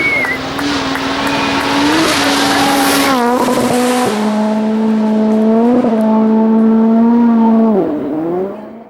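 A rally car's engine running hard at high revs, its pitch holding steady in stretches and jumping and dipping abruptly several times, with a brief high squeal at the start; the pitch drops sharply near the end and the sound fades out.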